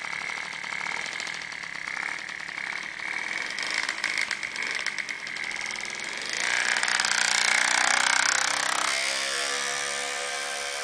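Peugeot 103 RCX moped's tuned single-cylinder two-stroke engine, fitted with a Polini G2 liquid-cooled 40.2 kit and a Dellorto carburettor, running with a high, fast buzz. It revs up about six seconds in and drops back near the end.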